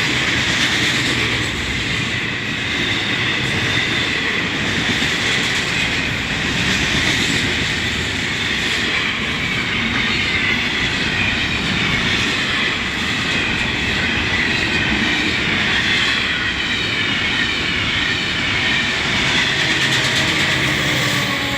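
Freight train cars rolling past, with a steady rumble and the clatter of wheels over rail joints. A wavering high-pitched squeal of steel wheels on the rail runs throughout.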